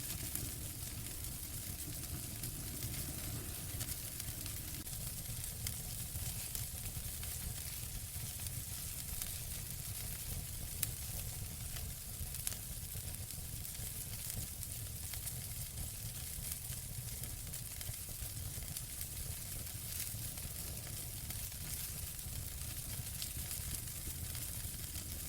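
Wood fire burning in a fireplace, a steady hiss with fine crackling and a low rumble, and two sharper pops near the middle.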